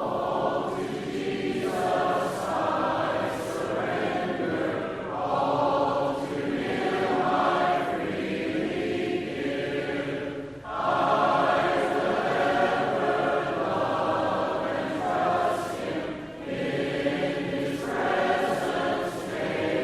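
Church congregation singing a hymn a cappella, many voices together in long held phrases, with a brief break for breath about ten and a half seconds in.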